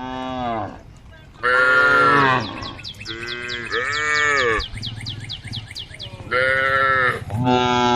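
Cows mooing: about six short, arching calls, one after another and sometimes overlapping.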